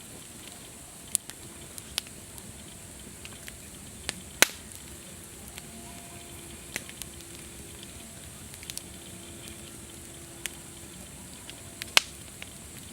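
Wood campfire crackling: irregular sharp pops over a steady hiss, the loudest pops about four and a half seconds in and near the end.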